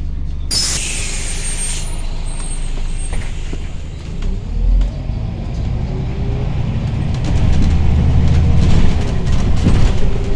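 Scania OmniCity city bus's diesel engine running, with a sharp burst of compressed-air hiss from the pneumatics about half a second in. From about halfway the engine grows louder and rises in pitch as the bus pulls away and accelerates.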